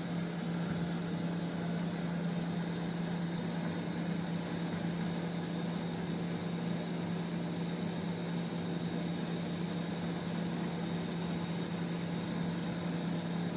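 A steady low hum under an even hiss, unchanging throughout, like a small engine or motor running constantly.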